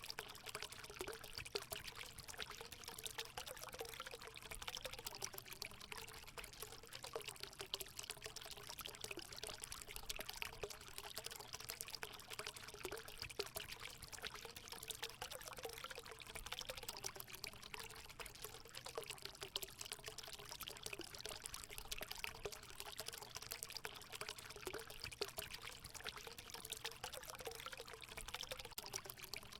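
Water running steadily into a hot spring pool, a continuous pouring and splashing with a gurgling undertone.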